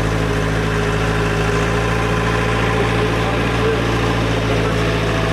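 Tractor engine running steadily as the tractor is driven along.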